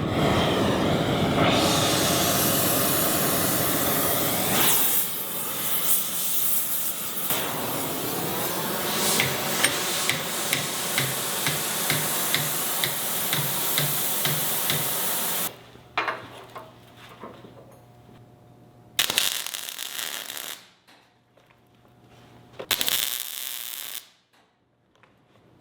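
Electric welding arc crackling and hissing through one long continuous weld of about fifteen seconds, then two short welds a few seconds apart.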